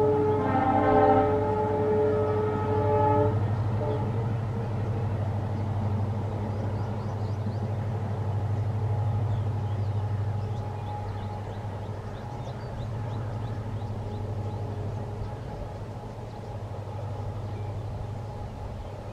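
Diesel locomotive's horn sounding one chord-like blast of about three and a half seconds, over the steady low drone of the locomotive's engine, which slowly grows fainter as the train runs on.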